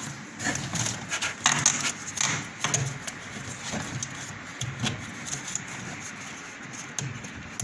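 Handling noises as a new drain hose is fitted onto a semi-automatic washing machine: irregular clicks, knocks and rubbing, busiest about one and a half to two and a half seconds in.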